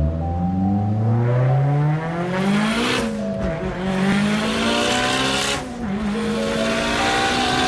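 Mitsubishi Lancer Evolution VIII's turbocharged 4G63 four-cylinder accelerating hard through the gears, heard from inside the cabin. The revs climb, drop at a gear change about three seconds in, climb again, and drop at a second shift about two-thirds of the way through.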